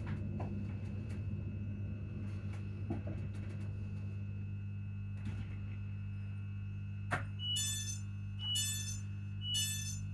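ScotRail Class 334 electric multiple unit's transformer humming steadily at a low pitch, with a few faint clicks. Near the end a sharp click is followed by three short electronic beeps about a second apart.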